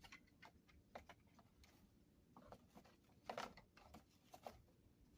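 Near silence, with faint scattered clicks and rustles from the loose plastic parts of a model railroad boxcar kit being handled; the clearest rustle comes a little past halfway.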